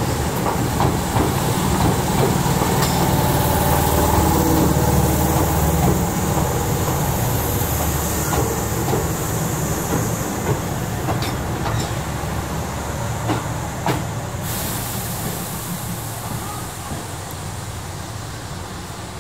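Tobu 350 series electric limited-express train pulling into the platform and slowing to a stop. Wheels rumble and clack over rail joints, fading as it slows, with a high hiss that cuts off suddenly about three-quarters of the way through.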